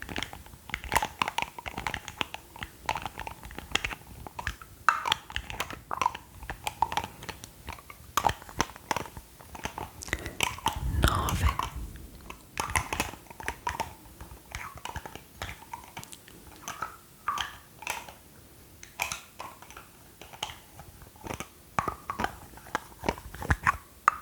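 Close-miked ASMR mouth sounds: a steady run of quick, wet clicks and pops, with one longer, fuller sound about halfway through.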